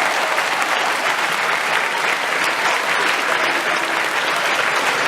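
An audience of pupils clapping steadily in a school hall.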